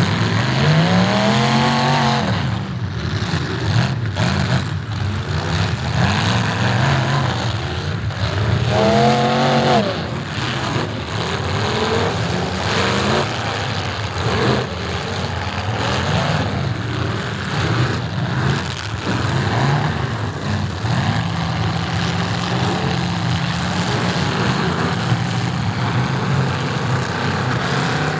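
Demolition derby car engines running and revving. The revs rise and fall twice in the first ten seconds, then settle into a steadier drone.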